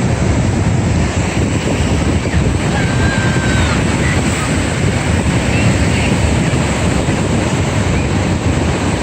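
Wind buffeting the microphone, a steady low rumble over the wash of ocean surf.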